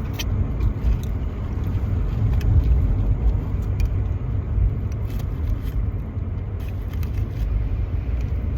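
Steady low rumble of a car heard from inside the cabin, with a few faint small clicks.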